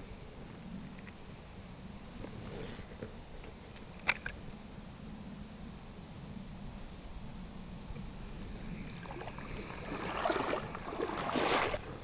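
Riverside outdoor ambience with a faint steady high buzz, one sharp click about four seconds in, and louder irregular scuffling noises near the end.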